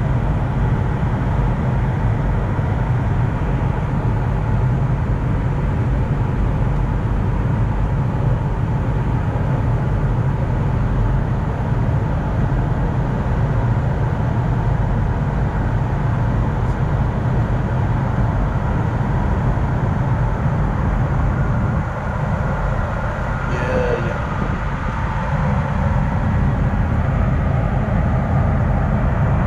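Steady, loud rumble of airflow and engine noise on the flight deck of an Airbus A220, with a faint steady tone above it. The noise dips briefly about three quarters of the way through.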